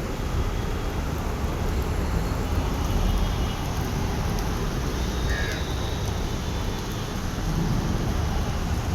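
Light monsoon drizzle, an even steady hiss over a continuous low rumble, with a brief higher call about five and a half seconds in.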